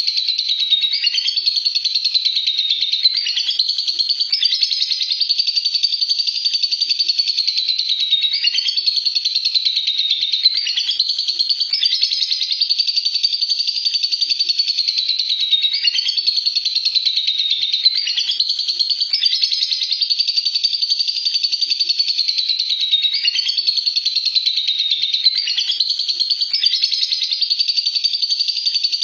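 Lovebird singing 'ngekek': one long, unbroken high-pitched chattering trill, with a brief dip every couple of seconds before it runs on.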